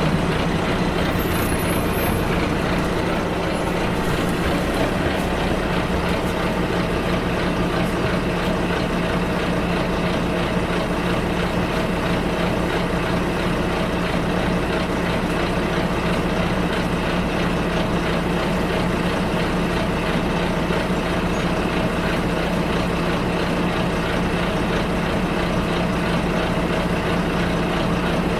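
Steady engine drone and rumble of a bus in motion, heard from inside the passenger cabin. A brief, faint high-pitched squeak comes about a second in.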